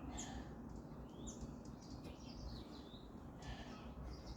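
Birds chirping faintly: a run of short, high chirps that fall in pitch, over a faint low rumble.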